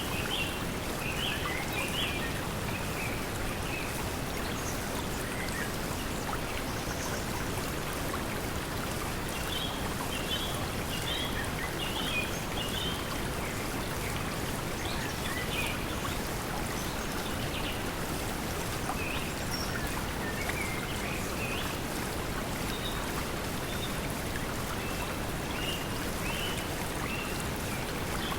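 Steady pink noise blended with flowing stream water, with short bird chirps scattered throughout.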